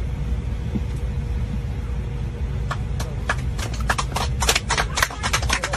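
Steady low rumble of an airliner cabin. From about three seconds in, a run of sharp, irregular claps begins, coming faster toward the end, like a few passengers clapping.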